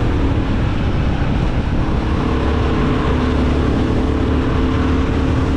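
Royal Enfield Guerrilla 450's single-cylinder engine running at a steady cruising speed on the highway, with a constant rush of wind noise over it.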